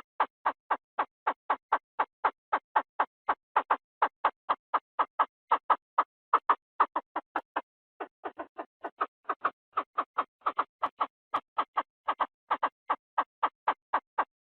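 Recorded calls of the Thai field quail (นกกระทาทุ่ง, Chinese francolin), played as a lure for calling the bird in. It is a long, even series of short notes, about four a second, that falters and weakens briefly just past the middle.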